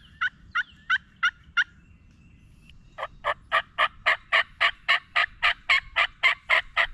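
Turkey yelping in two runs: about six clear, falling yelps at roughly three a second, then after a pause of about a second and a half, a louder, raspier run of about fifteen yelps at a slightly quicker pace.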